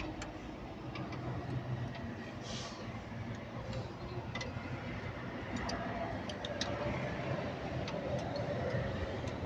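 Excavator diesel engine running steadily in the background, with a scattered series of light metallic clicks from a spanner working the accelerator cable adjuster nut, tightening the cable to raise the engine RPM.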